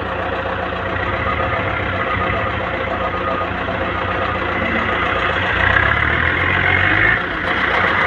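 Toyota Dyna dump truck engine running steadily, pulling harder about two-thirds of the way through and then easing off abruptly near the end.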